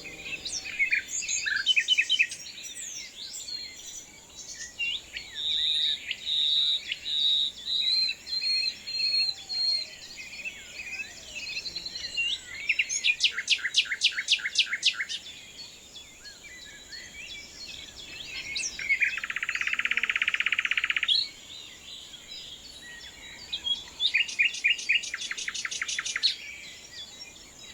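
Several songbirds singing: a mix of chirps and short whistles, twice a fast trill of repeated notes, and a buzzy call lasting about two seconds about two-thirds of the way through.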